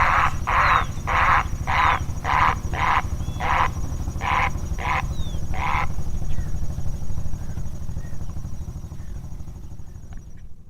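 A bird giving a series of harsh, raspy calls, about two a second, which stop about six seconds in. A steady low rumble runs underneath.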